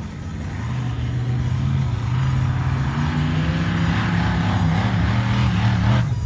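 Monster truck engine running hard, growing louder and rising slightly in pitch about a second in, then dropping away suddenly near the end.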